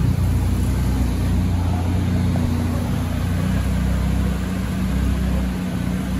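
A turbocharged 1983 Volvo 240's B21FT four-cylinder idling steadily on a chassis dyno, through a 2.5-inch stainless exhaust with a Cherry Bomb muffler. The engine is not revving.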